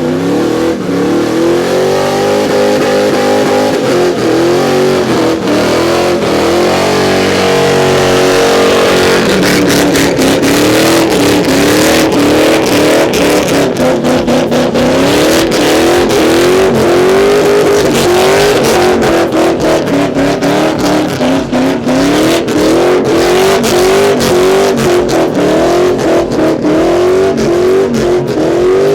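A car engine revving hard in rhythmic surges, its pitch rising and falling about once a second, as a car spins donuts. In the first few seconds the engine runs more steadily before the surges begin.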